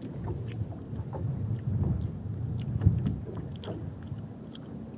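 A person chewing a mouthful of beets, with small wet mouth clicks, over a low wind rumble on the microphone; a single knock sounds near the middle.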